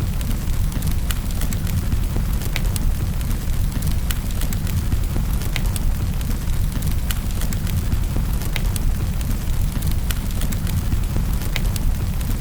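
Wood fire crackling in a fireplace, with irregular sharp pops and snaps over a steady low rumble, under an even hiss of rain.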